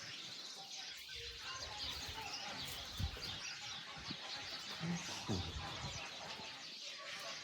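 Many small birds chirping together in an aviary: a continuous chatter of quick, high chirps, with a few faint low knocks.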